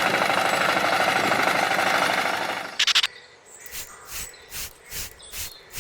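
Small electric motor of a DIY toy tractor running with a rattling buzz, stopping about two and a half seconds in. A few clicks follow, then faint short sounds repeating about twice a second.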